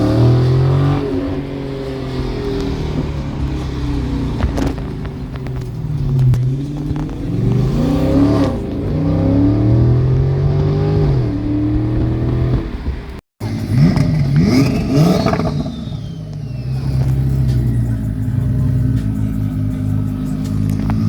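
Car engines revving, the pitch rising and falling in repeated blips. About 13 seconds in a short gap splits it into two clips; the second has a couple of quick sharp revs before settling to a steadier low running sound.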